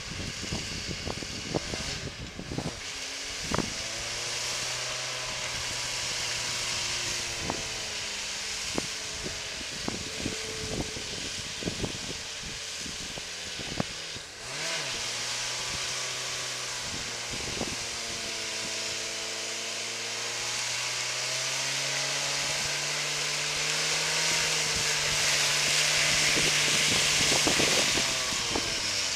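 Fiat Panda 4x4's engine working slowly through mud up a gentle slope, its pitch rising and falling again and again as the throttle is opened and eased. Many sharp clicks and knocks run through it, with wind hiss on the microphone, and it grows louder near the end as the car comes closer.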